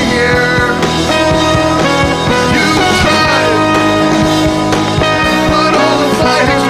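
A rock song playing: a full band with a steady drum beat, bass and sustained instrumental lines.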